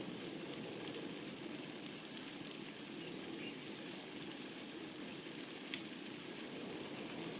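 Wood fire burning in a fireplace: a steady low rush of flames with a few sharp crackles and pops from the burning logs, the loudest about six seconds in.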